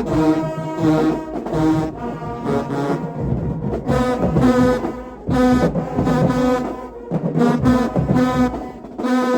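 Marching band brass section playing loud held chords, with heavy low brass, in short phrases that stop and start again.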